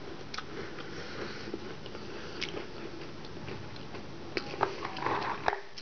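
Someone biting and chewing a crisp Stik-O buco-pandan wafer stick: a few sharp, scattered crunches over a low steady hiss.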